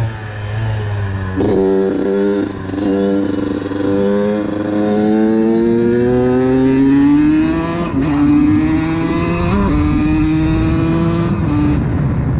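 Honda CR125 single-cylinder two-stroke engine under way on the bike: a quick run of revs and drops about a second and a half in, then a long steady rise in pitch, with sharp drops around eight and ten seconds as it shifts up, easing off near the end.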